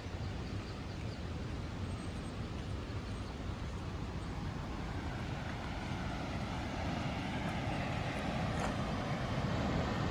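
Steady rushing roar of a large waterfall, growing louder near the end.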